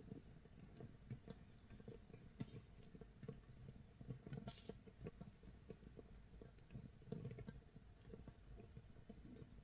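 Makgeolli starter mash (mitsul) fermenting in a crock: quiet, irregular crackling and popping of carbon dioxide bubbles bursting at the surface of the mash, a sign of active fermentation.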